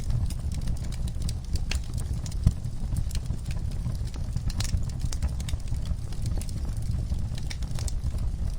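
Wood fire burning in a fireplace: irregular crackles and pops over a steady low rumble, with one sharper pop about two and a half seconds in.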